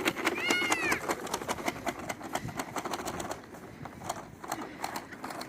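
Rapid clicking of a Little Tikes toy push lawn mower being pushed along. The clicks thin out in the second half. A brief high-pitched arching call comes about half a second in.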